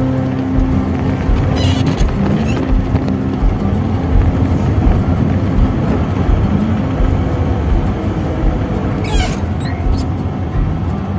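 Steady rumble of a car driving, with held musical tones faintly under it.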